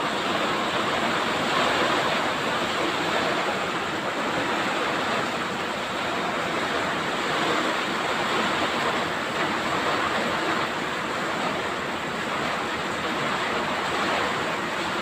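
Heavy tropical downpour pouring steadily, a dense even hiss of rain.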